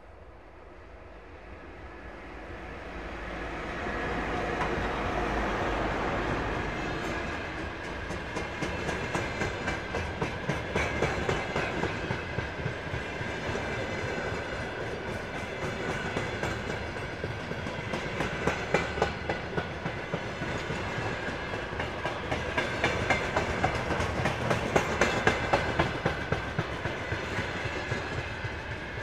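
Soviet VL10 electric locomotive approaching and passing, hauling a container freight train, the sound swelling to its loudest as it goes by. Then the container flatcars roll past, their wheels clattering over the rail joints in regular groups of clicks, with a steady high whine under it.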